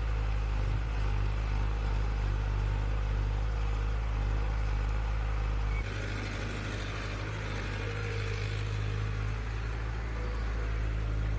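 An engine running steadily, its note changing about six seconds in.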